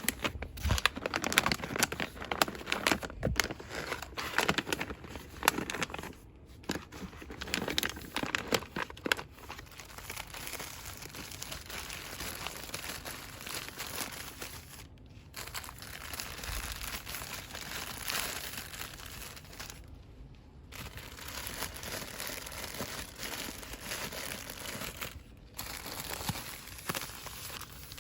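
Fast, vigorous rustling and crinkling of product packaging being handled. It is loud and densely crackling for the first nine seconds or so, then continues as softer, steadier rustling with a few brief breaks.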